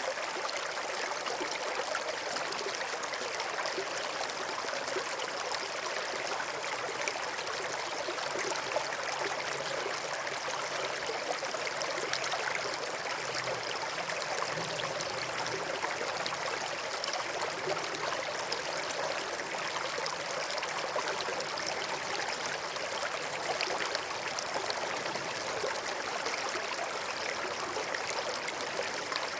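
Small stream flowing steadily, an even rush and trickle of water over stones.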